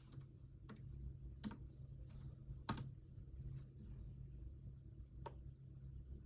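Scattered single keystrokes on a computer keyboard, a few separate clicks a second or more apart with the sharpest one about two and a half seconds in, over a steady low hum.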